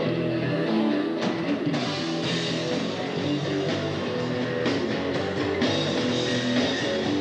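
Rock band playing an instrumental passage: guitar chords over bass, with drums and cymbals joining in about a second and a half in.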